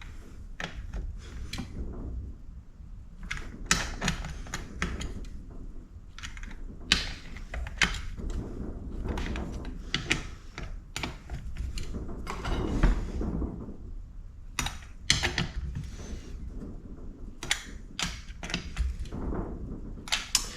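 Hand tools working bolts on a Honda CR125 engine's bottom end: an irregular run of sharp metal clicks and knocks, with tools being set down and picked up.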